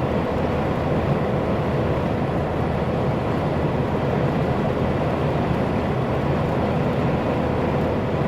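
Loaded diesel truck cruising on the highway: a steady drone of engine and road noise with a faint constant hum.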